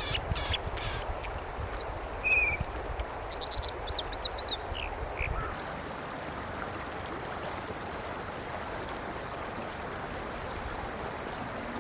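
American dipper singing: a string of sharp, high notes and short arched whistles through the first five seconds or so, over the steady rush of a fast-flowing stream, which then goes on alone.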